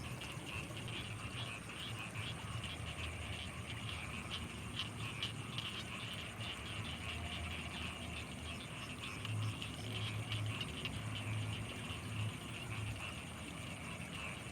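Night chorus of frogs and insects over rice fields: a dense, fast-pulsing trill continues throughout, with low croaking pulses that come in groups and grow stronger about nine seconds in. A faint steady high whine runs underneath.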